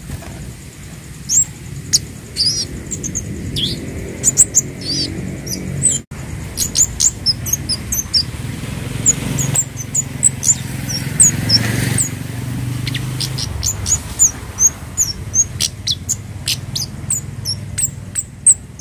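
Scarlet-headed flowerpecker (cabe Jawa, kemade) calling: a quick, irregular string of short, very high, thin chirps, over a steady low hum.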